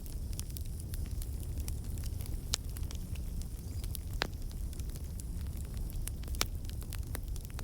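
Wood logs burning in a fireplace: a steady low rumble of flames with frequent sharp crackles and pops, the loudest about two and a half, four and six seconds in.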